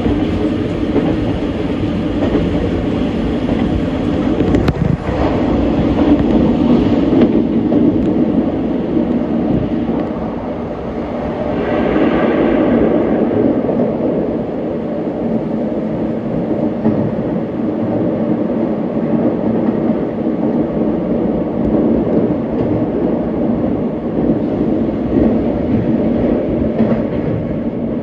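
Hanshin electric commuter train heard from inside the car while running: a steady rumble of wheels on the rails and running gear. The sound changes as the train enters a tunnel partway through.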